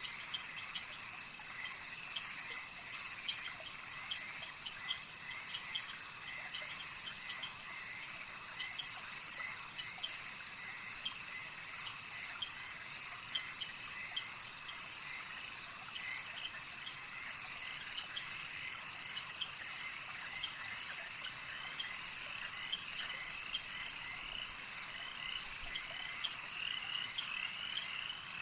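A dense chorus of frogs, many overlapping short, high chirping calls repeating without pause, over a steady high-pitched drone.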